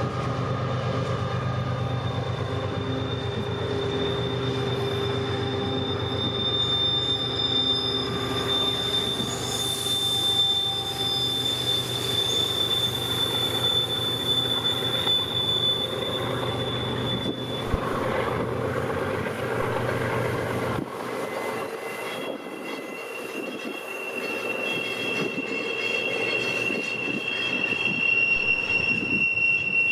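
CSX freight train rolling past, its steel wheels squealing on the rail in a long, high, steady tone that shifts lower about two-thirds of the way through. A low rumble runs under the squeal and drops away about two-thirds of the way in.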